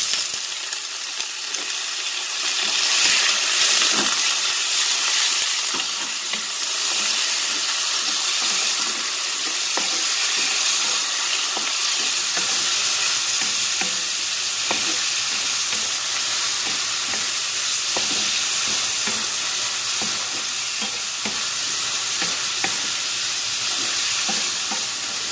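Seafood, carrots, onion and garlic sizzling steadily in hot oil in a pan while a wooden spatula stirs them, with scattered light knocks and scrapes of the spatula against the pan.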